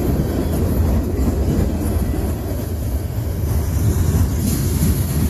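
Freight train coil cars rolling past close by, a steady low rumble of wheels on the rails.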